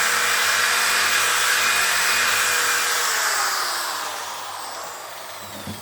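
Handheld electric sander running steadily on a plastic headlight lens. About three seconds in it is switched off and its pitch falls as it spins down.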